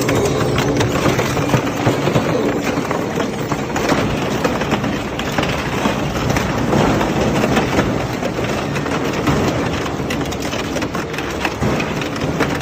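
Industrial shredder running and grinding through material: dense, irregular cracking and crunching over a steady machine hum.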